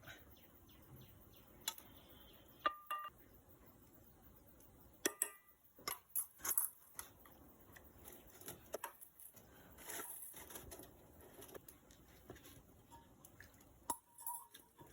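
Kitchen utensils and dishes clinking and knocking while roti is being made, with scattered clicks and a couple of short ringing metallic clinks.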